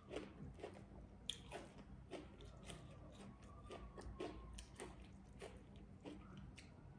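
Faint mouth sounds of a person chewing food: soft wet smacks and clicks, about two or three a second.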